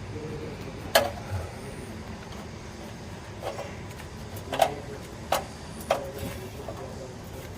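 An engine idling steadily with a low rumble, with about five sharp knocks scattered through; the loudest comes about a second in.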